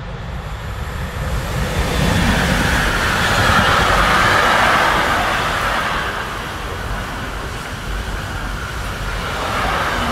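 Freight train passing close by, hauled by a Hectorrail locomotive: the rumble builds over the first two seconds as it approaches and is loudest a few seconds in. Then a long string of intermodal wagons loaded with containers and semi-trailers rolls past steadily.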